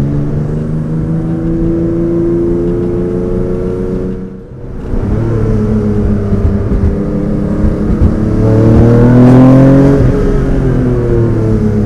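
Porsche 911 G-body rally car's air-cooled flat-six accelerating hard through the gears, its pitch climbing and dropping at each shift. The sound dips briefly about four seconds in and is loudest about nine seconds in as the car draws near.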